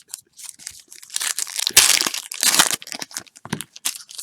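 Plastic packaging crinkling and rustling as trading cards are handled, in irregular bursts with a few sharp clicks.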